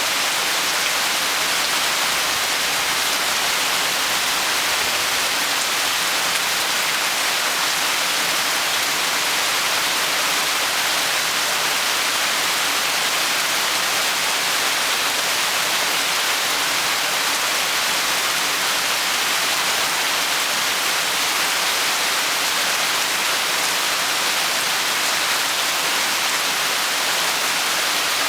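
Steady heavy rain falling, an even hiss of many drops with no pauses or single sounds standing out.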